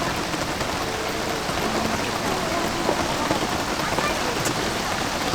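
Steady rain falling: a dense, even hiss with scattered drop ticks.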